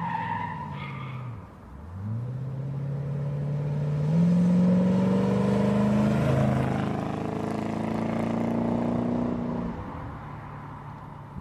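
Car engine accelerating: its note dips about two seconds in, then climbs steadily for several seconds, holds high and eases off near the end.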